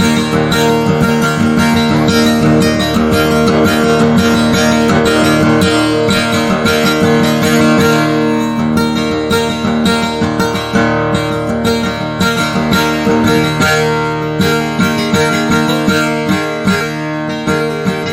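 Background music: acoustic guitar playing a steady run of quick plucked notes.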